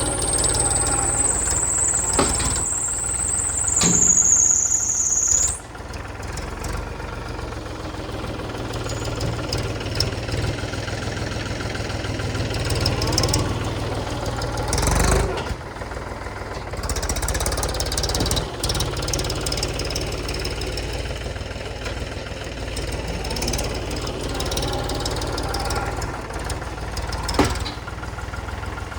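Mahindra tractor's diesel engine running steadily under loader work, with a few separate knocks. A high whine falls slightly and then cuts off about five seconds in.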